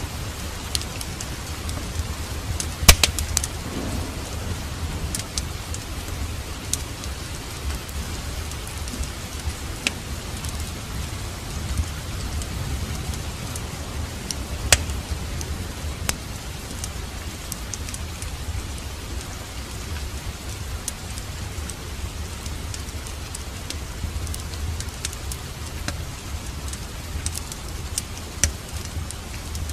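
Steady rain over a low rumble, mixed with sharp pops of a wood fire crackling. The loudest pops come about 3 seconds in and again near the middle.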